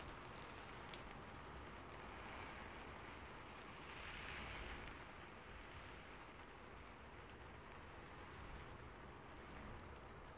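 Rain-on-a-rooftop ambience track: faint, steady rain noise with now and then a single drop ticking.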